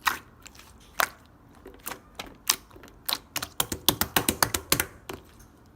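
Slime being pressed and worked by hand, giving off sharp popping clicks as air pockets burst. The clicks are scattered at first, then come in a quick run of several a second after about three and a half seconds.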